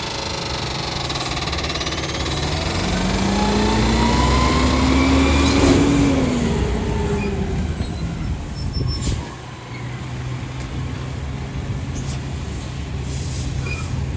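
Rear-loader garbage truck's diesel engine revving up, its pitch rising for several seconds, then dropping back to a steady low idle about two-thirds of the way through.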